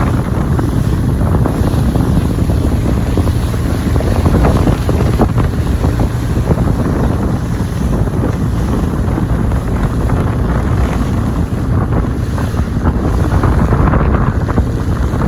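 Heavy wind buffeting the microphone aboard a motorboat under way, with engine and water noise beneath.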